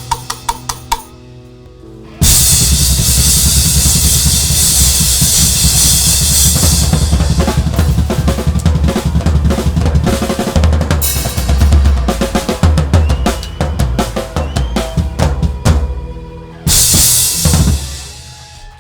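Drum kit played live with a rock band, heard close up: kick drum, snare and cymbals. A short run of hits opens it, then a loud stretch of cymbal wash and busy drumming, with a final crash near the end that rings away as the song ends.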